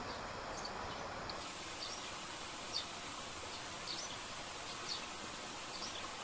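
Forest ambience: a steady hiss with short, high chirps from a small bird repeating roughly once a second.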